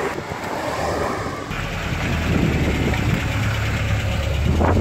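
1966 Ford Cortina GT Mk1's 1500cc Kent four-cylinder petrol engine running as the car drives along the road, then, after a cut about a second and a half in, idling close up with a steady low rumble.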